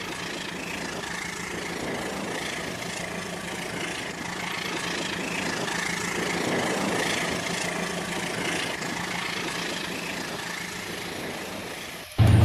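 Rail King battery-powered toy train running on its track: a steady whirring from its small electric motor and wheels, growing a little louder around the middle.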